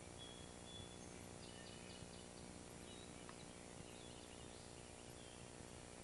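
Near silence with faint bird chirps: a few short calls and, about one and a half seconds in, a quick run of about five notes, over steady camcorder hiss and hum.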